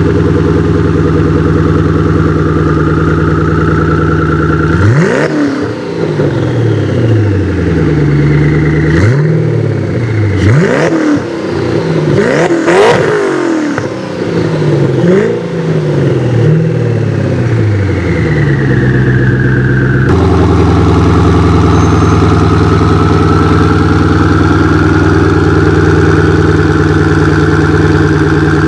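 Koenigsegg Agera R's twin-turbo V8 idling, then revved in a series of quick blips from about five seconds in, each rising sharply in pitch and dropping back. After about twenty seconds it settles back to a steady idle.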